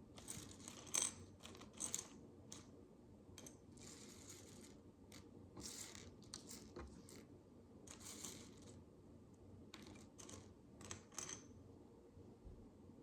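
Faint, irregular clicks and taps of small plastic micro bricks being handled and snapped together, with a few short scraping rustles between them.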